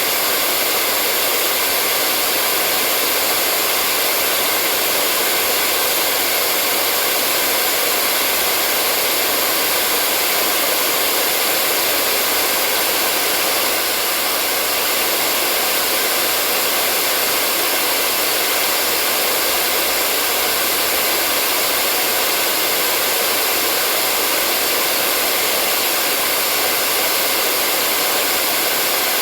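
Hair dryer blowing steadily, an even high hiss with a faint hum of tones, running without change.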